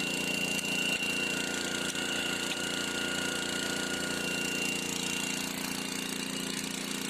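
Small water-well drilling rig and its pump running steadily while drilling, a constant engine-like drone with a thin high whine over it.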